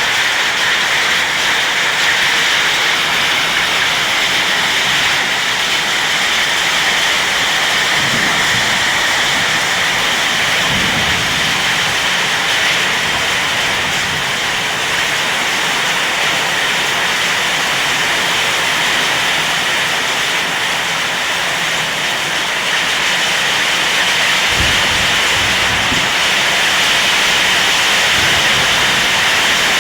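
Heavy rain mixed with hail pouring down in a dense, steady hiss, with a few brief low thumps.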